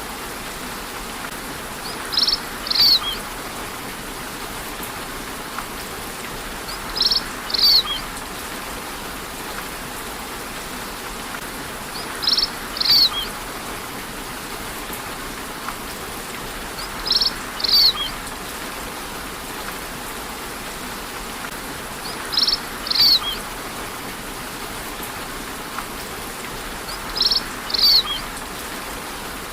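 Steady rain falling, with a bird calling a pair of short, high notes about every five seconds, six times over.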